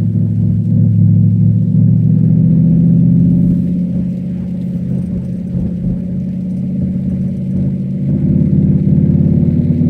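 Cadillac STS-V's supercharged V8 engine running under load, easing off about four seconds in and pulling harder again near the end.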